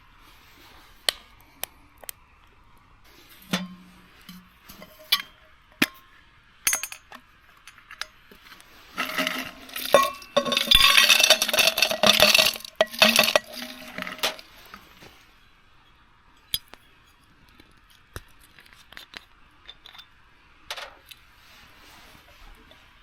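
Camp cookware and utensils being handled: scattered light clinks and knocks, with a denser stretch of rattling and rustling for about five seconds in the middle.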